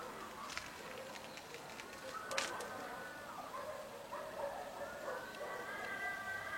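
Rural morning birdsong: small birds chirping in quick short notes, then longer drawn-out calls. A cow starts to moo near the end.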